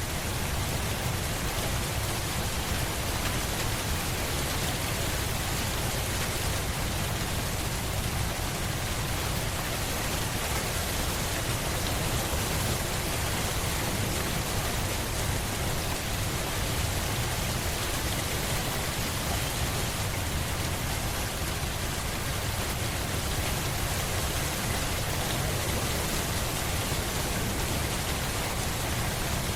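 Steady rain falling, an even hiss with a low rumble underneath and no single drops or thunder standing out.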